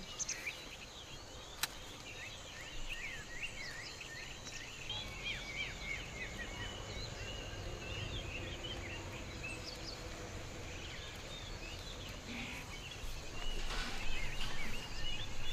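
Small birds chirping and twittering in quick, short calls over a steady background hiss, with a single sharp click about one and a half seconds in and a louder, noisier stretch near the end.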